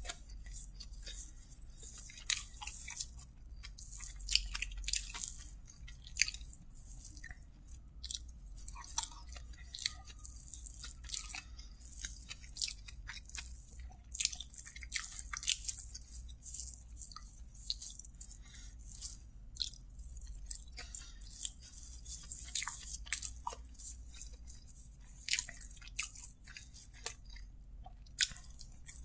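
Close-miked eating: a man chewing mouthfuls of kottu roti eaten by hand, with many irregular, sharp, wet crackles and clicks.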